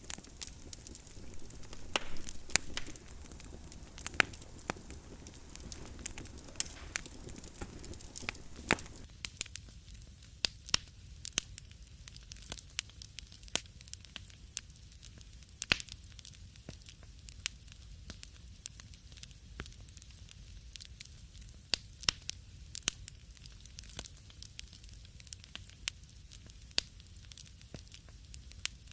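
Wood fire crackling in a fireplace: irregular sharp pops and snaps over a soft hiss. The background hiss thins about nine seconds in, leaving the pops more distinct.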